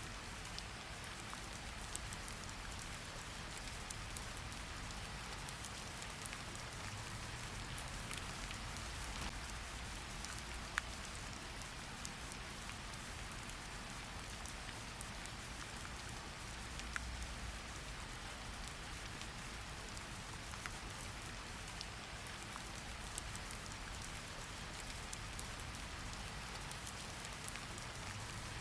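Steady rain falling on a surface, an even hiss dotted with individual drop ticks, one sharper drop about eleven seconds in.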